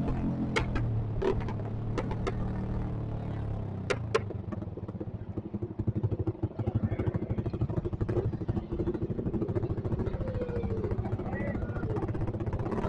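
Motorcycle with a loud open aftermarket exhaust, heard while riding. Several sharp clicks come in the first few seconds as the engine note eases, it pulses choppily around the middle, then it runs steadily again.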